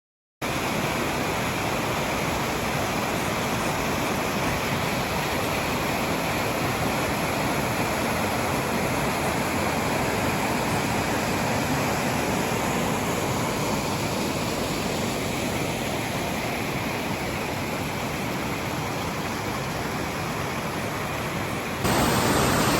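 Waterfall rushing as a steady, even roar of falling water. It starts abruptly about half a second in and steps a little louder near the end.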